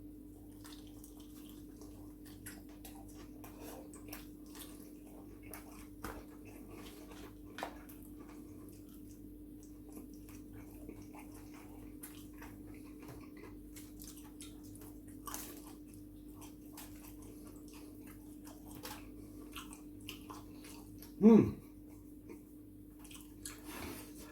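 Close-miked eating sounds: scattered small chewing, biting and wet mouth clicks as fried chicken is eaten, over a steady low hum. One short, louder vocal sound stands out near the end.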